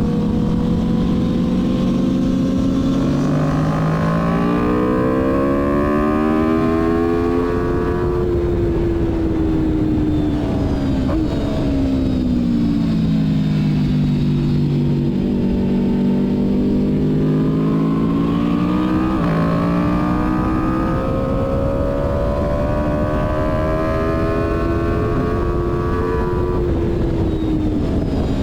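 Sport motorcycle engine on a track lap, heard from on board with wind noise. The engine note climbs steadily under acceleration, drops away under braking about eight seconds in, then climbs again through the second half and falls near the end.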